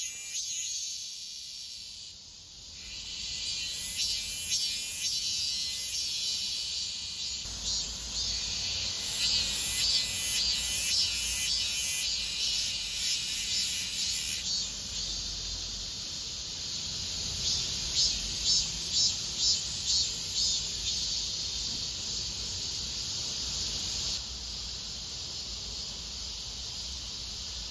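Cicada singing: a loud, pulsing buzz high in pitch that swells and eases in loudness, dropping back about halfway through.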